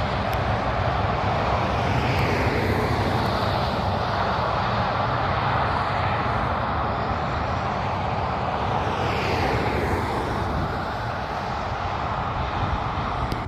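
Heavy trucks driving past on a road: a continuous loud rumble of diesel engines and tyre noise, with the pitch falling as vehicles go by, about two seconds in and again about nine seconds in.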